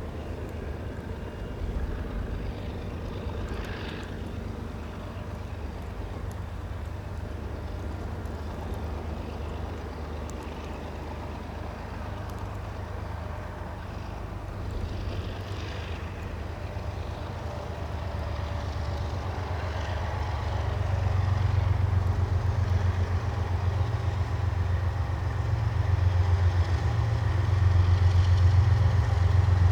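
Diesel locomotive engine running with a low, steady rumble that grows louder over the last ten seconds or so as the train approaches.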